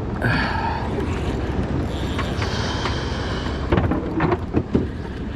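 Steady low rumble of wind on the microphone and the boat on the water, with a few sharp knocks around four seconds in.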